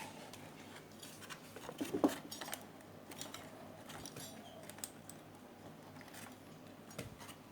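Small metal clicks and clinks of screws and a tool being handled while a home theater unit is taken apart, loudest in a short cluster about two seconds in.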